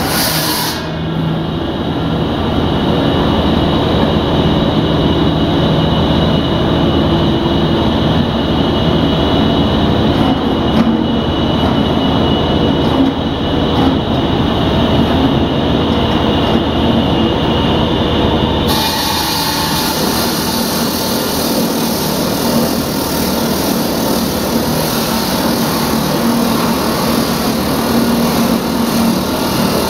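Loud engine-driven machinery running steadily, with a harsher hiss joining about two-thirds of the way in.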